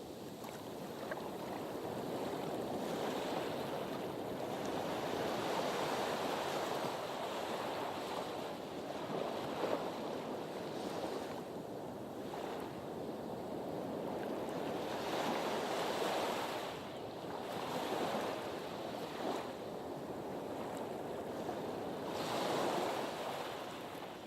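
Waves lapping and washing against a harbour breakwater, a steady wash of surf that swells and eases every few seconds.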